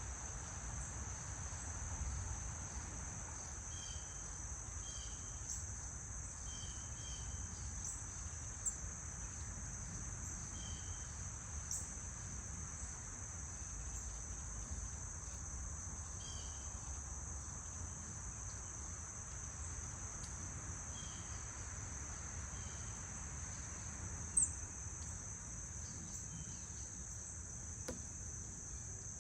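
Steady high-pitched insect chorus, crickets trilling without a break, with scattered short bird chirps now and then.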